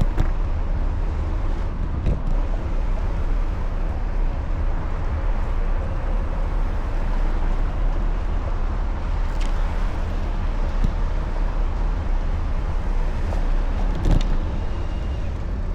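Steady road and traffic noise, a constant low rumble, with a couple of faint knocks.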